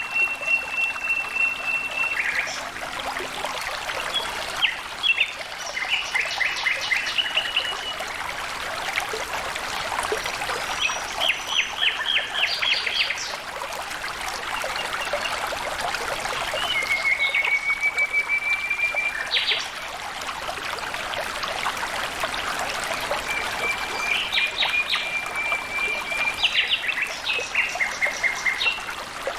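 Water flowing and trickling steadily, with birds calling over it: a long steady high note at the start, then several short runs of quick repeated notes.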